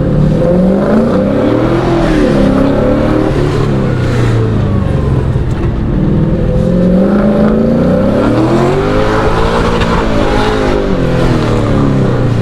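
LS V8 engine in a BMW E36 revving up and dropping back again and again under the driver's throttle during an autocross run, its pitch climbing and falling about three times.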